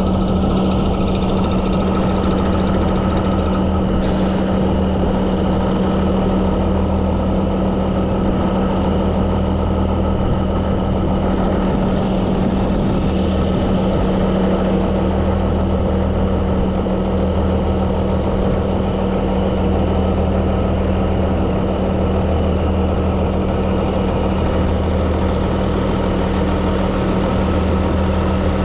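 Heavy diesel truck engine running steadily at low revs, with a short burst of air hiss about four seconds in.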